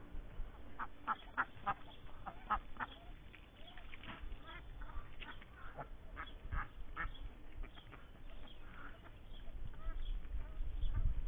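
Indian Runner ducks quacking: many short calls in quick succession. A low rumble rises near the end.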